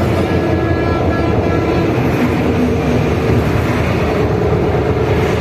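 Train running along the track across the bridge, heard from the front of the train: a loud, steady rumble. A faint high whine sits over it for the first two seconds or so.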